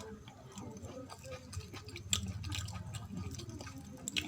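Close-miked wet eating sounds of curry and rice being chewed: soft, moist mouth clicks, with two sharper clicks, about two seconds in and near the end.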